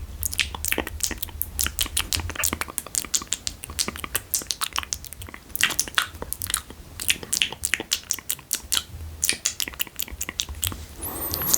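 Wet ASMR mouth sounds close to the microphone: irregular tongue clicks and spit smacks, several a second, made for 'spit painting'.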